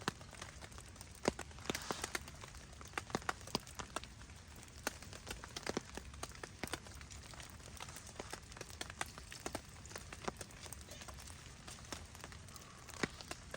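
Steady rain with many scattered, irregular sharp ticks and pops.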